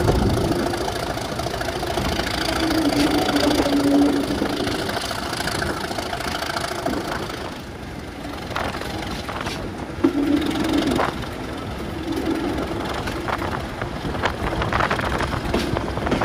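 A train running, a steady engine-like din with a low hum that comes and goes twice and a few sharp clicks in the second half.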